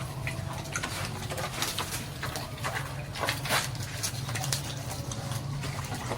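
Pigs in a pen grunting and shuffling, with scattered short clicks and knocks over a steady low hum.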